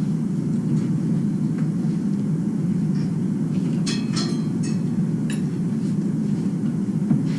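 Steady low rumble, with a quick run of sharp taps about four seconds in: a chicken pecking at the tabletop.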